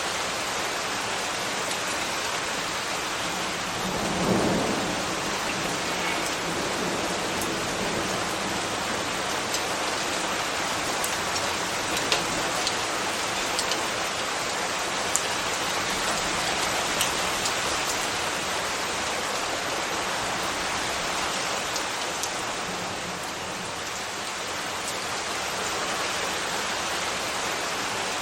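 Steady, heavy rain hissing on surfaces, with scattered sharp drip ticks. A brief low rumble swells about four seconds in.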